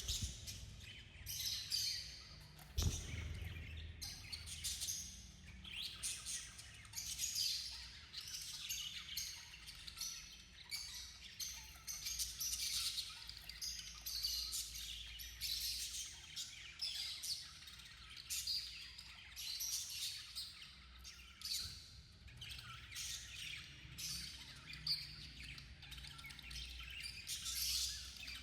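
Budgies chirping and warbling continuously, many short overlapping chirps with no pause. A single low knock about three seconds in.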